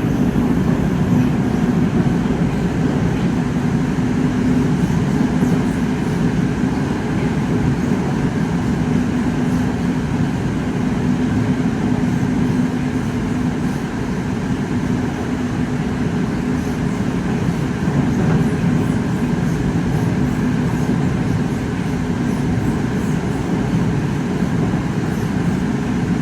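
Moscow Metro train running at speed through a tunnel, heard from inside the carriage: a steady rumble of wheels on rail with a constant low hum.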